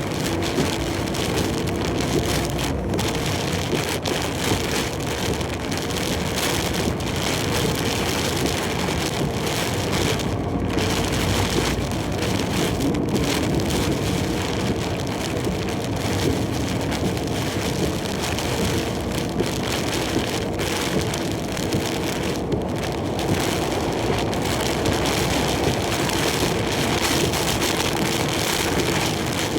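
Heavy typhoon rain beating steadily on a large truck's cab, over the steady drone of the truck driving at speed.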